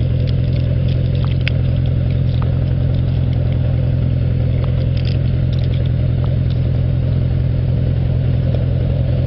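Motorcycle engine running steadily at an even pitch and level, as when cruising at a constant speed.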